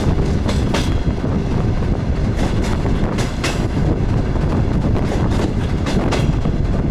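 DR1A diesel multiple unit running along the line, heard on board: a steady heavy rumble with the wheels clacking irregularly over rail joints.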